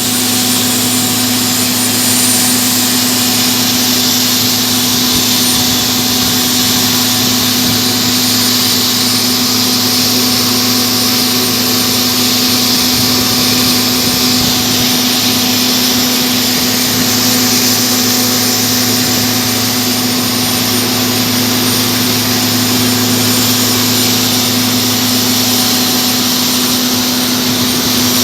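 Ilyushin Il-76 cargo jet's engines running steadily close by: a loud, even jet whine and hiss over a steady low hum.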